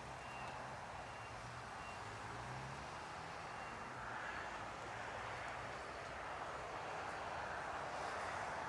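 Distant jet airliner engines: a steady rushing noise that slowly grows louder.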